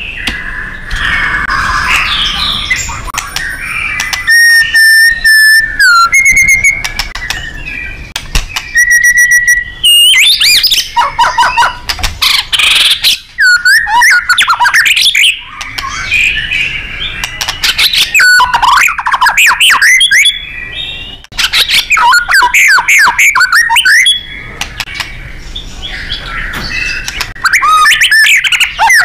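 White-rumped shama (murai batu) singing loudly and continuously in an aggressive, full-power song. Clear held whistles and sweeping notes alternate with rapid runs of harsh chattering notes.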